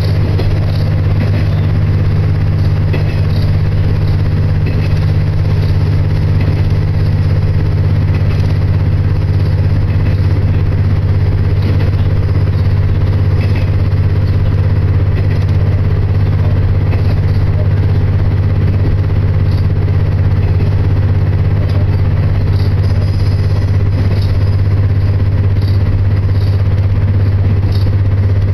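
Diesel railcar running steadily along the line, heard from inside the car: a loud, unbroken low engine drone with faint scattered ticks and rattles.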